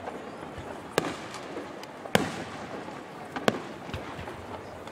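Aerial firework shells bursting: three loud, sharp bangs about a second apart, with several smaller cracks between them.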